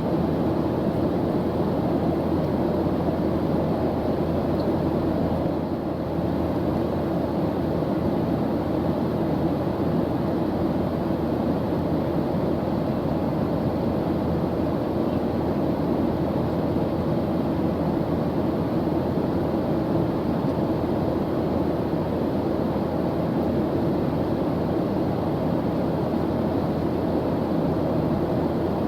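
Airplane engine in flight: a steady, even drone and rush, mostly low in pitch, without changes.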